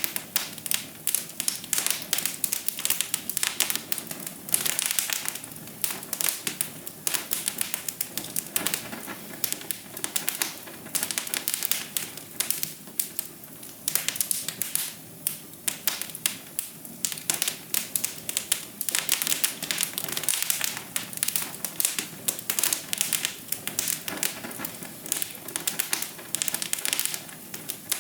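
Wood fire in a fireplace crackling steadily, with many irregular sharp pops and snaps.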